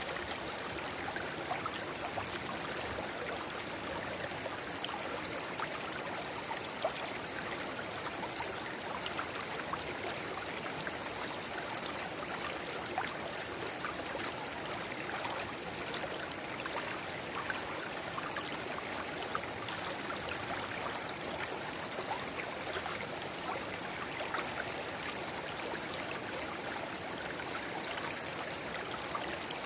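River water babbling and splashing over stones, joined by a small spring-fed inflow: a steady rush with many small splashes and trickles all through.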